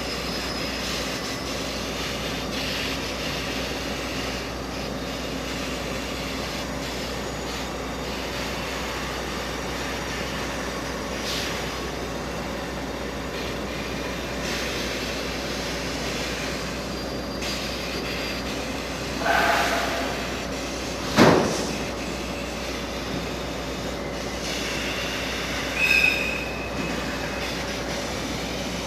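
Limestone freight train working slowly through the station yard: a steady mechanical hum, a sharp metal clank about two-thirds through, and brief high wheel squeals on either side of it.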